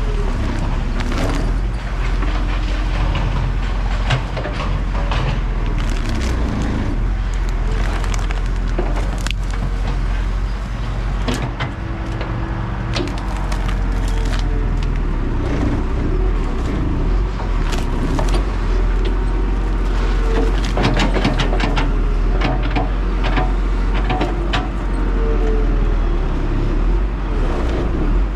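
Hydraulic excavator running at low throttle while it works a tree stump out of the ground. A steady low engine drone runs under short hydraulic whines that come and go, with frequent sharp cracks and knocks.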